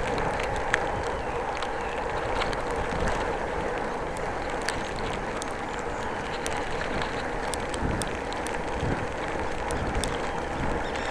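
Bicycle riding on a wet road in drizzle: steady tyre and wind noise with scattered small clicks and rattles.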